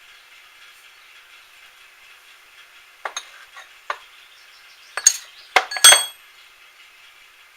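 Small metal tools and parts clinking against each other as they are handled: two light clinks about three seconds in, then several louder, ringing clinks a second or two later, over a faint steady hum.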